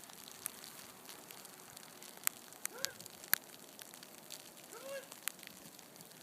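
Two short, high bleats from Nigerian Dwarf goats, each rising then falling, about two seconds apart. Scattered sharp ticks of freezing rain come in between.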